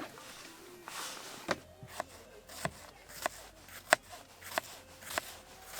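Paring knife mincing on a cutting board: sharp, evenly spaced knocks, a little under two a second, starting about a second and a half in.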